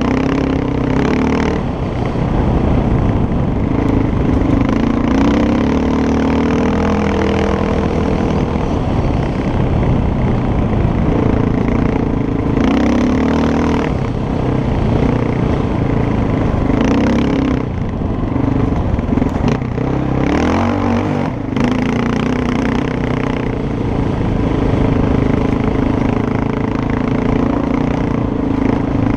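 Motorcycle engine running while being ridden, its note rising and falling with the throttle, over a steady rush of wind and road noise.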